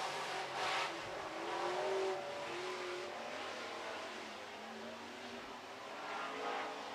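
Super Truck race engines running together on a dirt oval, their pitch rising and falling as the trucks accelerate and back off. Loudest in the first two seconds, fading through the middle and swelling again near the end as the pack comes round.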